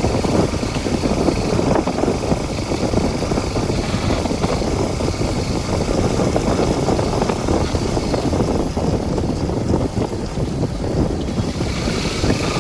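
Steady rumbling noise of a vehicle on the move, with wind buffeting the microphone.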